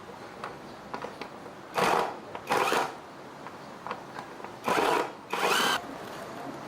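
A small power tool run in four short bursts, in two pairs, the last one with a rising whine as it spins up.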